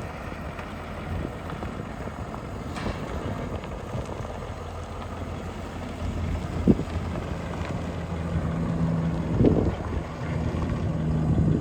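2017 Ford F-250 Super Duty truck engine idling steadily, with two brief thumps; the sound grows a little louder about six seconds in and a steady higher hum joins near eight seconds.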